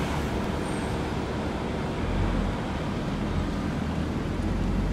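Mercedes-AMG GT Black Series' twin-turbo V8 running at low revs as the car turns and pulls away, a low rumble that swells about two seconds in, over general street traffic.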